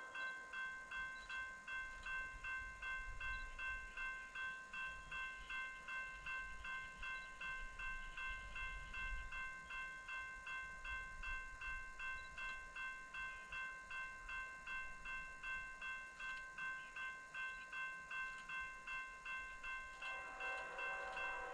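Railroad grade-crossing bell ringing with quick, even strokes, and a low rumble underneath for a few seconds near the middle.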